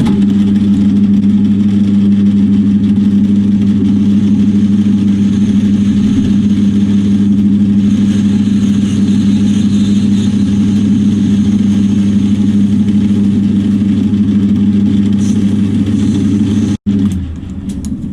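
Metal lathe running steadily with a low, even hum while a flat-faced, home-ground tool cleans up the inside of a brass crank disc, with a faint cutting hiss over it. It breaks off for an instant near the end and carries on quieter.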